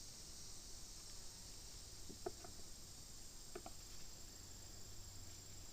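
Faint, steady high-pitched chirring of insects, with two short chirps about two and three and a half seconds in.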